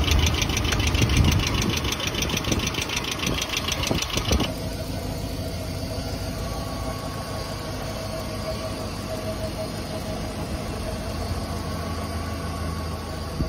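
Kia DOHC 16-valve four-cylinder engine idling with its oil filler open, a fast, loud top-end ticking over the running for the first few seconds, typical of a sludged-up valvetrain. The ticking stops abruptly, leaving a smoother steady idle.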